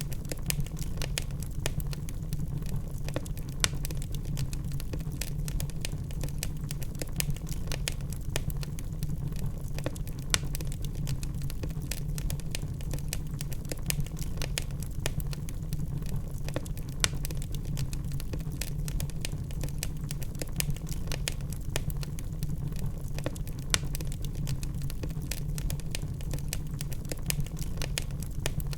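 Logs burning in a fireplace: a steady low rumble of the fire with frequent sharp crackles and pops, a few louder pops standing out here and there.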